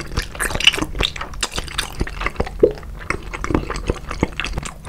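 Close-up wet chewing and mouth smacking on a mouthful of raw salmon slices soaked in sauce: a rapid, uneven run of small squishy clicks and pops.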